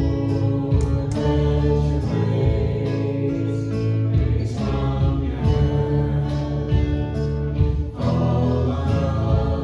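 A contemporary worship band playing a song with singing, guitar and a steady drum beat.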